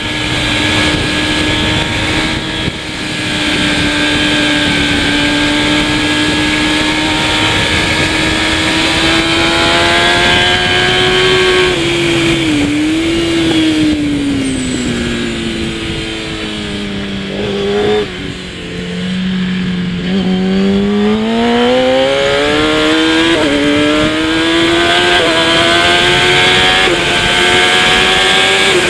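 Kawasaki ZX-10R superbike's inline-four engine at race pace: held high and steady for about eleven seconds, then falling in steps through downshifts as it slows for a corner, and climbing again through upshifts as it accelerates out.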